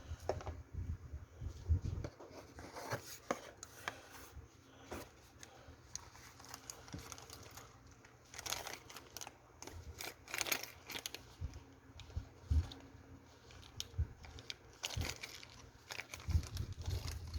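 Irregular handling sounds: crinkling and tearing of packaging with short clicks and knocks, coming in uneven bursts.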